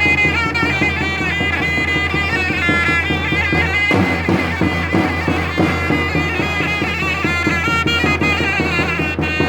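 Zurna playing a shrill, ornamented melody over the beat of a davul bass drum: Turkish davul-zurna folk music. The melody breaks off briefly about four seconds in.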